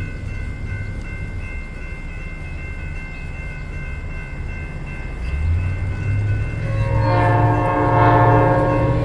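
Metra express train approaching with the diesel locomotive's rumble building from about five seconds in. About seven seconds in, the train's horn starts sounding one steady chord.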